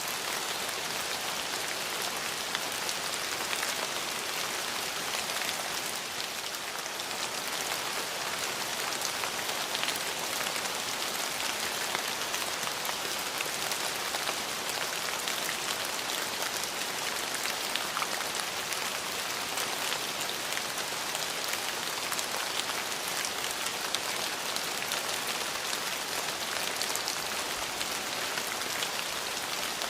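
Steady rain falling on hard surfaces, a dense even hiss full of fine drop ticks.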